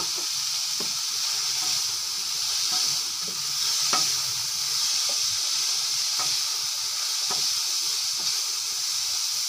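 Chicken, carrot and green capsicum strips sizzling steadily in ghee in a non-stick frying pan, stirred with a spatula that scrapes and taps against the pan now and then.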